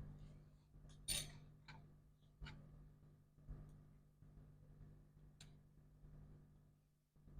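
Sparse light clicks and taps of small metal parts and screws being handled while a laptop logic board is fitted back into its case, about six or seven in all, the sharpest about a second in. A faint steady low hum runs underneath.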